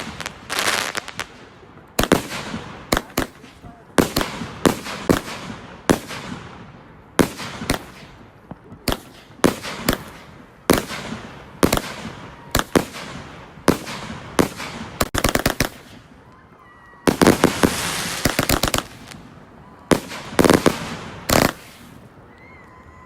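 Fireworks going off in a long series of sharp bangs, roughly one or two a second, each with a short fading tail. About three-quarters of the way through comes a dense volley of rapid cracks.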